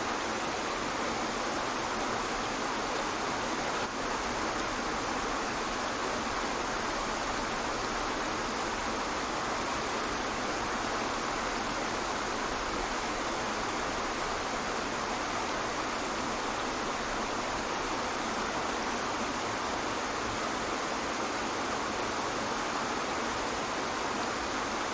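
Waterfall: steady, even rushing of falling water that never changes, with little low rumble.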